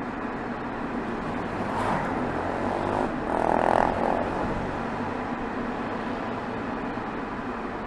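Exhaust of a BMW 320xd's 2.0-litre four-cylinder turbodiesel, recorded at the tailpipe while driving, a steady drone mixed with road noise. It swells briefly twice, about two seconds in and again around three and a half seconds.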